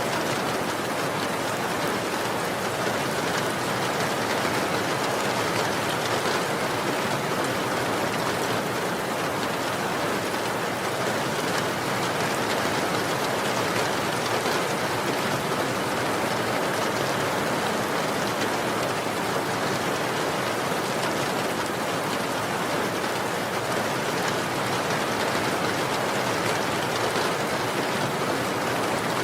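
Steady rain falling, an even wash of patter with no breaks or thunder.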